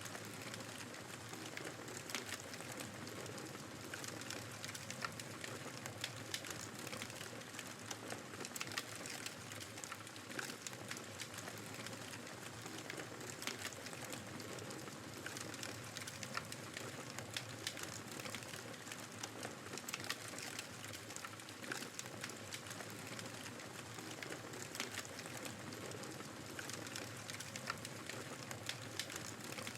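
Wood fire crackling with frequent small, sharp pops over the steady rushing of blizzard wind.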